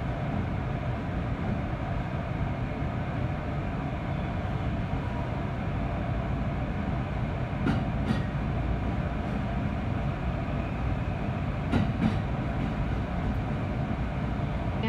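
JR East E531 series electric train running, heard from inside the carriage as it pulls out of the station. Steady running noise, with the wheels clicking sharply over the track twice in pairs, about eight and twelve seconds in.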